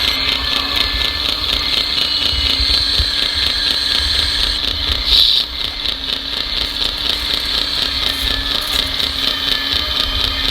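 Radio-controlled construction models' motors running with a steady high whine and a lower hum, with a short louder burst about five seconds in.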